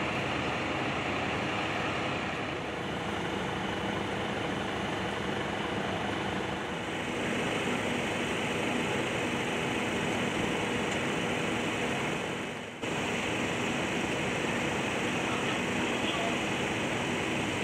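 Steady mechanical drone with a low hum, like machinery running on idle. It drops away briefly near the end and comes straight back at full level.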